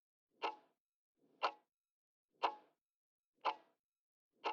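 Clock-tick sound effect, one short tick each second, about five in all: a quiz countdown timer running while the answer is awaited.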